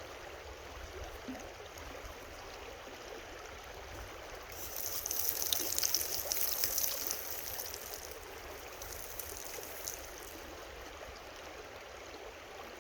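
Creek water running steadily. About four seconds in a louder, high hiss rises over it, peaks briefly and fades out by about ten seconds.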